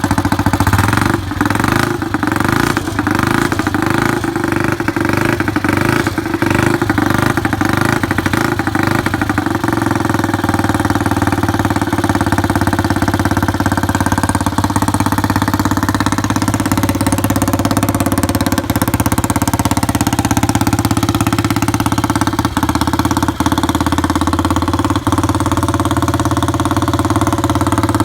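Guiller motorcycle's AMC engine running on its first start after restoration, with a regular pulsing over roughly the first nine seconds, then running more steadily.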